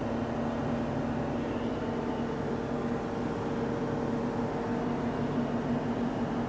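Steady mechanical hum with a constant low drone and a fainter higher tone, unchanging throughout.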